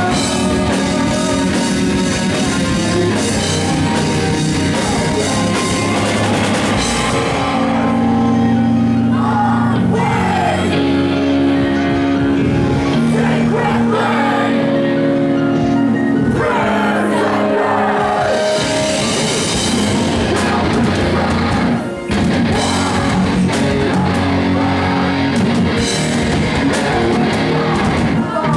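A five-piece post-hardcore band playing loud live, with distorted guitars and a drum kit. About seven seconds in, the cymbals drop away for a stretch of long held chords. The full band crashes back in around twenty seconds in.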